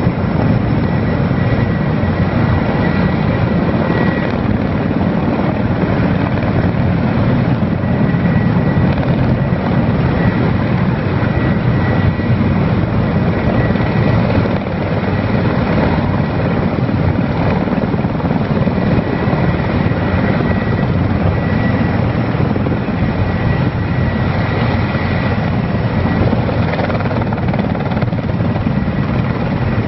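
Erickson Air-Crane heavy-lift helicopter running steadily overhead, its rotor and turbines making a loud continuous rumble with a faint steady whine.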